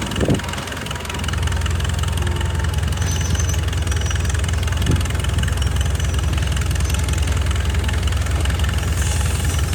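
Excavator's diesel engine running steadily with a deep rumble that grows louder about a second in. There is a brief knock at the very start and another about halfway through.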